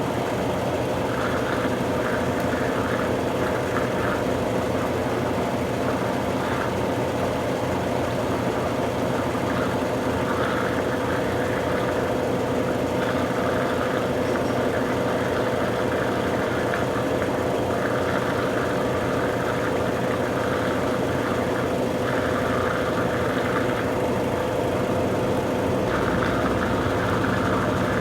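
Consul Super Cargo 8 kg (CWL08C) top-loading washing machine running, most likely spinning, with a steady hum and whine and recurring bursts of rattling from the shaking cabinet. The machine jumps hard enough that it has to be held in place.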